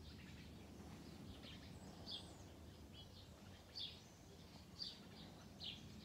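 Faint bird chirps: four or five short, high calls spaced through, over a low, steady outdoor background noise.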